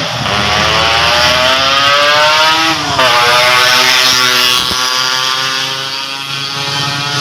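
Yamaha RX-King two-stroke single-cylinder engine through an aftermarket exhaust, accelerating hard: the pitch climbs for about three seconds, drops sharply at a gear change, then climbs again more slowly in the next gear.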